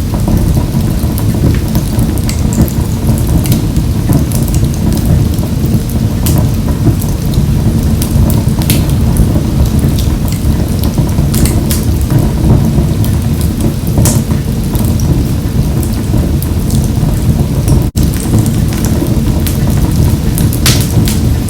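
Wood fire burning in a wood-burning stove: a steady low rumble of the flames with sharp crackles and pops scattered throughout. The sound cuts out for an instant about eighteen seconds in.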